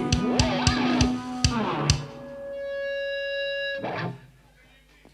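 Metal band playing live: drums and distorted electric guitars for about two seconds, then a single guitar note rings on alone, a last hit about four seconds in, and the music dies away.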